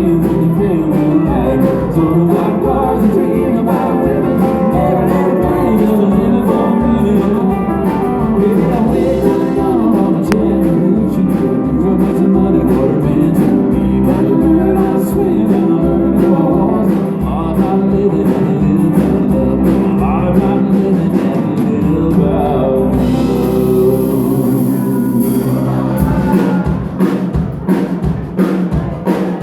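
Live band playing country-rock with guitar, drum kit and a singer. About three-quarters of the way through the music thins out, and sharp drum hits start near the end.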